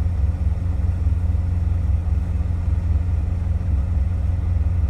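Semi truck's diesel engine idling: a steady low rumble with an even, fine pulse.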